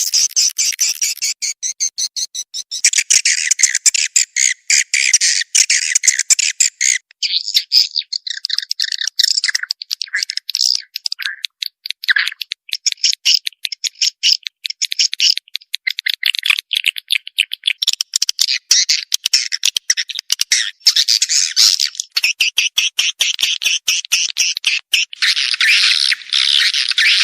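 Recorded swiftlet calls: a dense, rapid, high-pitched twittering of chirps and clicks, played as a lure to draw swiftlets to a nest house to roost.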